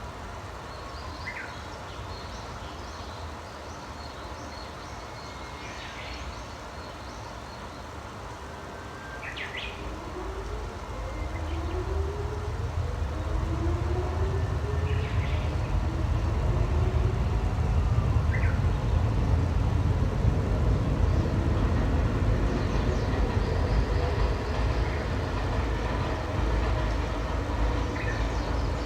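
Wild birds give short chirps every few seconds. About ten seconds in, a deep rumble from a passing vehicle rises, with a faint rising whine, and becomes the loudest sound, holding until near the end.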